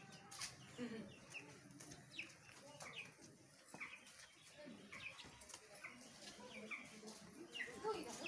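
Birds chirping faintly: short, falling chirps scattered about once a second or so.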